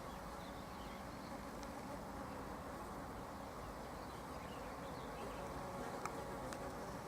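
A flying insect buzzing steadily close by, with a couple of faint ticks about six seconds in.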